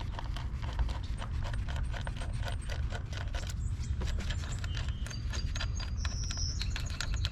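Ratchet wrench clicking rapidly and steadily as it loosens an 8 mm bolt on the engine.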